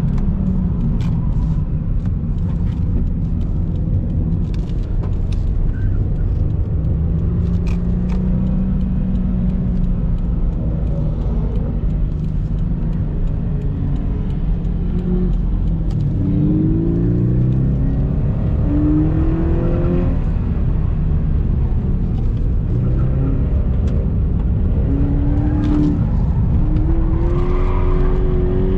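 Subaru BRZ's flat-four boxer engine pulling hard on track, with steady road and wind noise; the engine note climbs in pitch through the revs about halfway through and again near the end. A few short clicks sound in the first few seconds.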